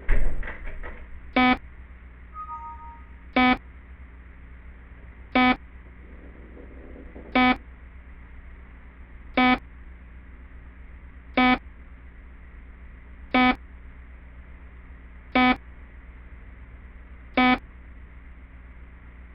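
A loud sudden bang or knock right at the start that dies away over about a second, over a security camera's alarm beeping once every two seconds. A short two-note electronic tone sounds about two and a half seconds in.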